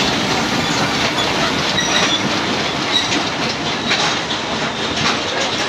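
Passenger train running on the rails: a steady loud rumble and clatter of wheels over the track, with a few short high wheel squeaks.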